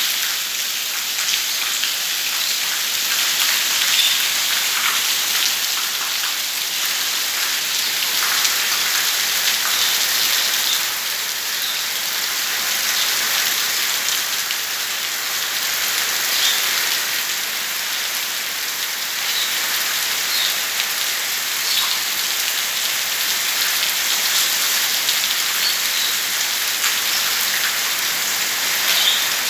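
Heavy rain falling steadily: a dense, even hiss with scattered louder drips and splashes.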